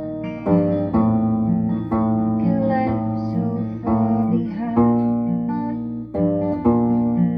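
Plucked-string music: an octave ukulele tuned like a bass guitar (EADG) picking notes about once or twice a second alongside a sung ballad, with a voice faintly heard over the strings.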